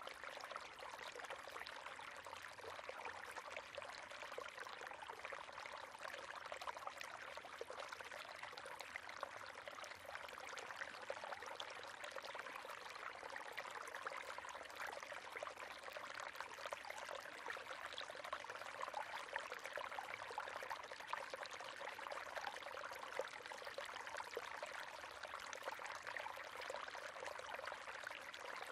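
River water running over stones, a steady babbling rush with fine splashes and trickles.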